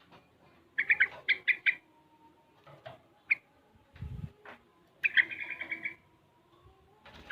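Young yellow-vented bulbul singing two short bursts of rapid chirping notes, one about a second in and one about five seconds in, with a single note between them. A short low thud comes about four seconds in.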